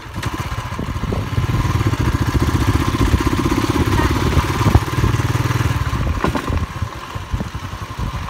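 A motor vehicle's engine running steadily with road noise, louder from about a second in and easing off near the end.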